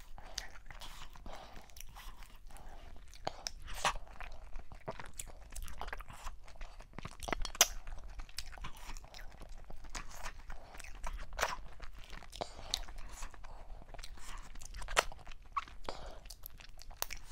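Close-miked chewing and mouth sounds of a person eating meat, cow skin and fufu in okra soup with her hands: a steady run of small clicks and crackles, with a few louder, sharp bites about every four seconds.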